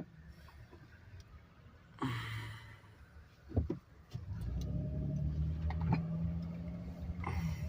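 Car running on the road, its engine hum and road noise heard from inside, getting louder and steadier from about halfway through. A brief hiss about two seconds in and a short knock shortly after.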